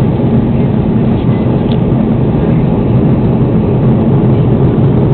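Steady cabin drone of an Airbus A330 airliner in flight: engines and airflow make an even, loud low rumble inside the passenger cabin.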